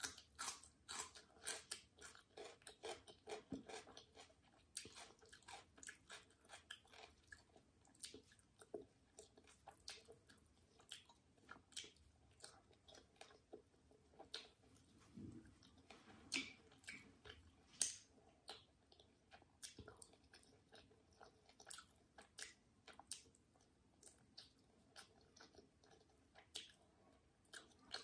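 Close-miked chewing and biting: a person eating chicken and rice by hand, with irregular short wet clicks and occasional crunches from crisp cucumber slices.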